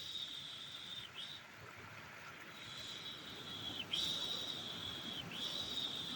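A mother's soothing 'shh' shushing ('piş piş') to calm a baby: long hissing shushes one after another, each lasting about a second, with brief breaks between and one longer pause about a second and a half in. A faint low noise bed runs underneath.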